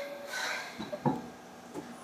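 Seibu 2000 series electric train during a quiet stretch: a short soft hiss about half a second in, then a few faint clicks and knocks.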